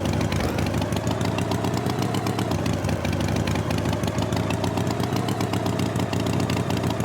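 Tractor engine sound effect running steadily, its pitch wavering slightly.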